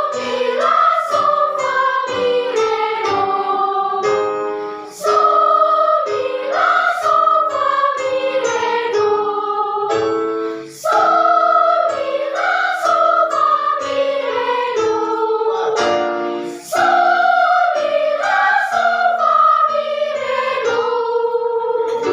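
Children's choir singing with piano accompaniment, in phrases of about six seconds with short breaks between them, each melodic line stepping downward.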